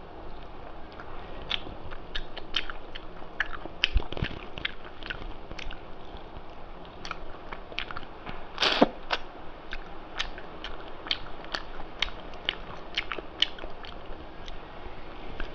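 Close-miked chewing and biting of food, with a steady run of short, sharp mouth clicks and crunches; one longer, louder crunch or sniff about nine seconds in.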